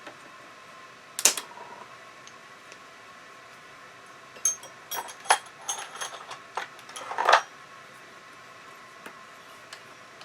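Hand tools working on a bicycle's rear derailleur cable: one sharp metallic snap about a second in, then a run of light metal clicks and rattles with brief ringing as the cut cable is worked out.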